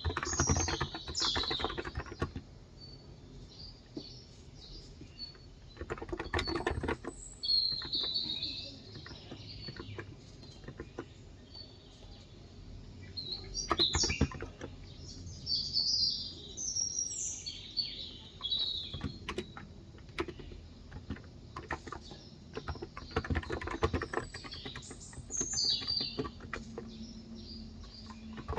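Birds chirping throughout, over several short bursts of typing on a Cox Endeavor electro-capacitive (non-contact) 35 g tenkeyless keyboard, with pauses of a few seconds between bursts.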